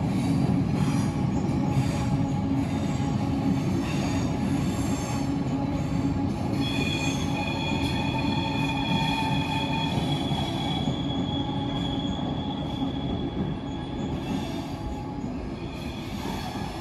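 SBB passenger train rolling over a steel truss bridge with a steady rumble of wheels on rails. A high, steady wheel squeal joins about six seconds in and lasts several seconds. The sound fades as the train moves away near the end.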